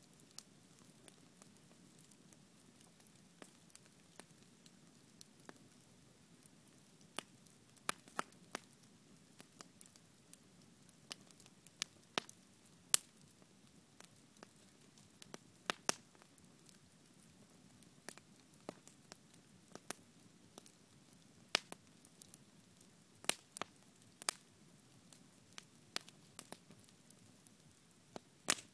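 Wood campfire burning and crackling: irregular sharp pops and snaps, a few much louder than the rest, over a faint steady rush of the flames.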